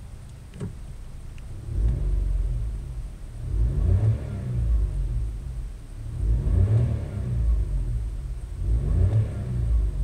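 Car engine, just started, idling and revved about four times in Park with no load, each blip rising and falling in pitch, to about 3,000 rpm on the tachometer.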